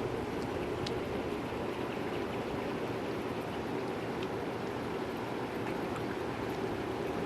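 Steady rushing noise of a motorboat underway, its engine hum blended with water washing along the hull.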